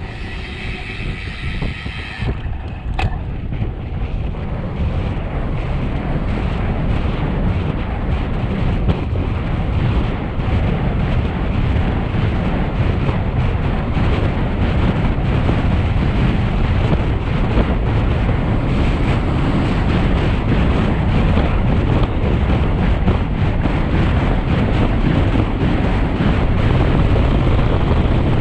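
Wind rushing over a bike-mounted microphone during a fast road-bike descent, growing louder as speed builds. In the first two seconds a pitched whine sounds over it, followed by a single click.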